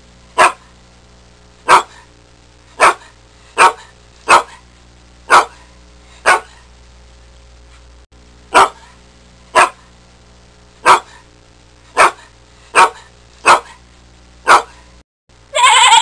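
A dog barking in single sharp barks, about one a second, fourteen in all with a short gap midway. A sheep starts bleating right at the end.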